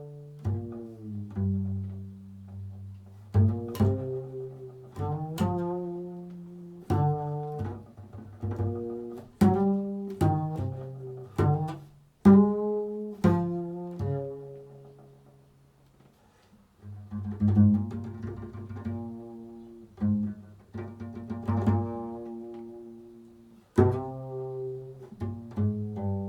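Improvised solo music on a low string instrument: single plucked notes that start sharply and ring out as they fade, with a brief pause about two thirds of the way through before the notes resume.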